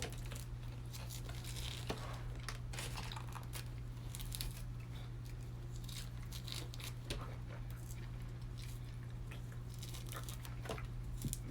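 Fruit being peeled by hand in a hurry: many small tearing and scratching sounds of peel being pulled off, over a steady low hum.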